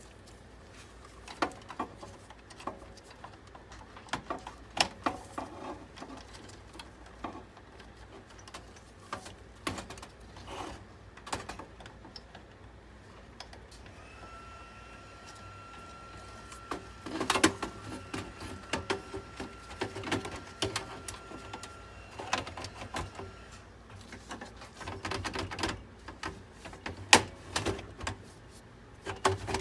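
Scattered clicks, taps and knocks of hands and tools working on a desktop PC's case and parts. Midway a steady high whine runs for about eight seconds over the clicking.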